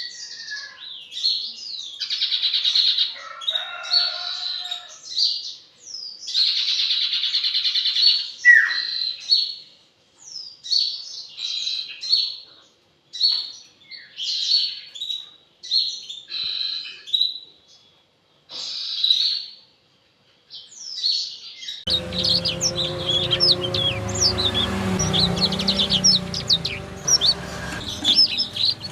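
A caged songbird singing, a run of varied, quick whistled phrases broken by short pauses. In the last several seconds the chirping carries on over a steady low hum.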